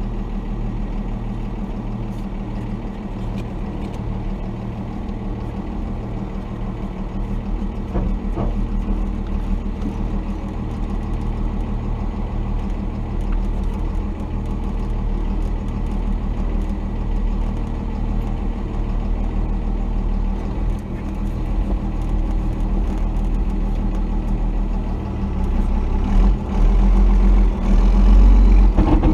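Cummins 5.9-litre inline-six turbodiesel of a 1990 Dodge D250 pickup running steadily, getting louder over the last few seconds.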